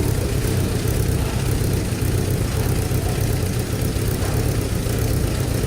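Rebuilt 2.4-litre four-cylinder engine of a 2006 Chevrolet Cobalt idling steadily.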